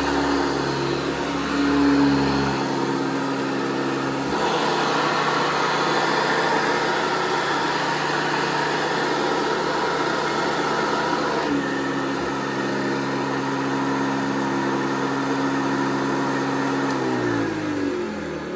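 1982 Hoover Industrial C1069 upright vacuum cleaner running steadily, its motor tone changing a few seconds in and again midway. Near the end the motor is switched off and winds down with a falling pitch.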